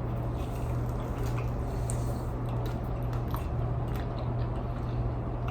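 A person chewing a mouthful of soft donut, with faint small wet mouth clicks, over a steady low hum.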